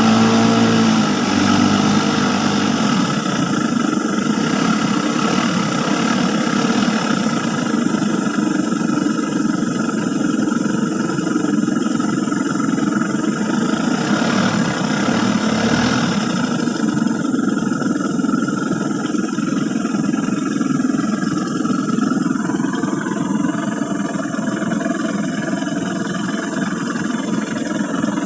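An engine running steadily and loud, its pitch shifting briefly near the start and then holding even.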